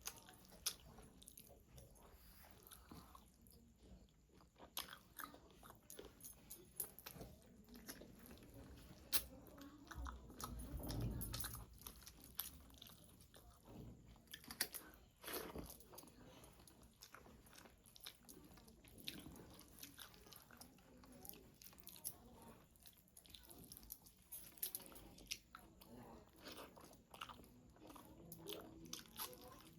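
A person eating close to the microphone: chewing and biting into rice and spicy chicken curry, with frequent short, sharp crunches and wet mouth sounds. There is a louder stretch of chewing about eleven seconds in.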